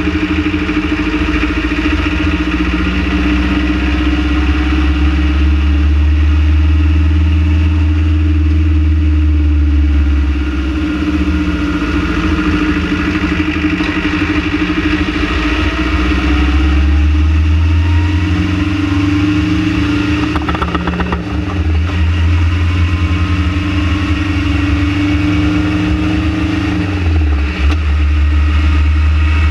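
Renault Trafic van engine running with a strong low drone, its pitch rising and falling, with two brief dips in the last third. The owner is chasing an engine vibration in this van.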